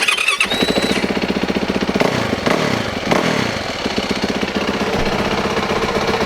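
2018 Yamaha YZ450F's single-cylinder four-stroke engine, just brought to life on its electric starter. The throttle is blipped a few times about two seconds in, the revs falling back after each, and then it settles into a steady, fast-pulsing idle.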